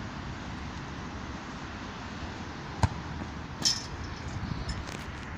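A football kicked hard: one sharp thump about three seconds in. Under a second later comes a brighter, ringing clink-like knock, over a steady outdoor rumble of wind.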